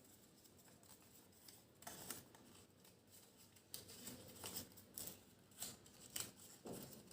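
Faint rustling and crinkling of a sheet of origami paper being folded and pressed by hand, in a few short, soft scrapes and taps, mostly from about two seconds in.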